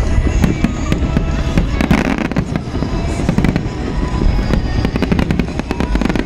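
Fireworks display going off in rapid succession: many sharp bangs and crackles with a continuous low rumble, and music underneath.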